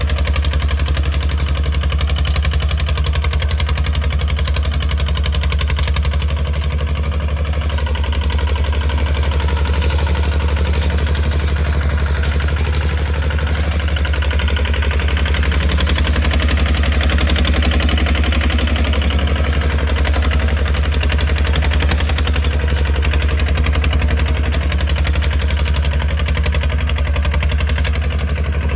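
Kubota RT155 two-wheel tractor's single-cylinder diesel engine running steadily with a rapid, even firing knock.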